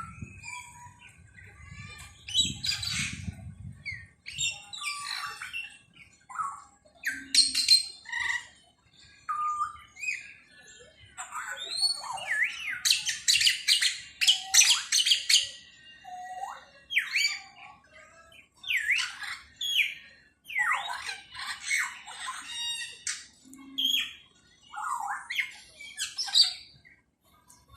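A mix of aviary birds calling over one another: chirps, whistled notes and harsh squawks, busiest about halfway through.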